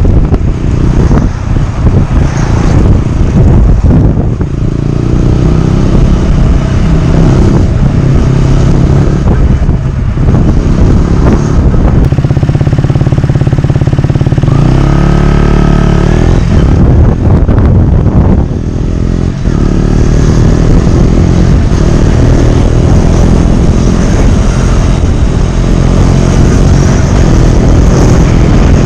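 Exhaust note of a 2018 KTM Duke 125's single-cylinder four-stroke engine through a GPR exhaust with the dB killer removed. The engine runs loud, its revs rising and falling, with a clear rising rev about halfway through.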